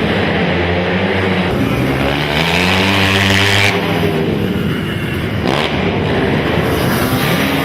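Racing quad (ATV) engines revving, their pitch rising and falling with the throttle, with one short sharp knock about five and a half seconds in.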